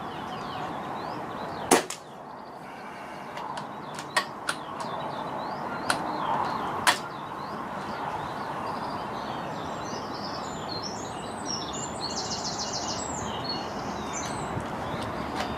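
Steady wind noise on the microphone, broken by a handful of sharp clicks and knocks from an air rifle being shot and handled, the loudest just before two seconds in. Faint bird chirps come near the end.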